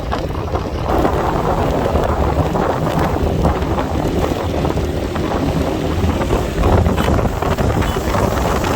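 Wind buffeting the microphone on a moving motorcycle, a loud, steady rumbling rush over the road and engine noise.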